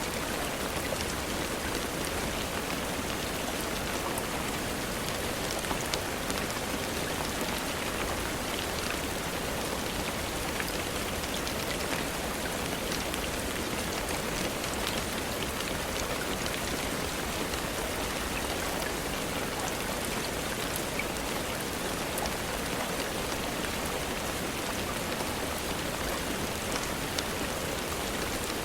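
Steady rain falling onto a surface, a constant hiss with many small drop patters and ticks throughout.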